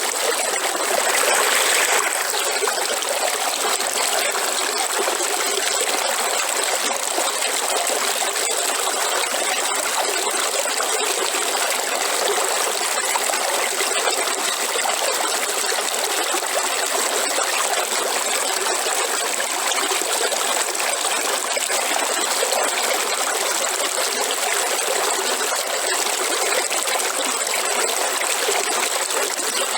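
River water flowing steadily over rocks, a continuous rush and trickle, a little louder for a moment about a second in.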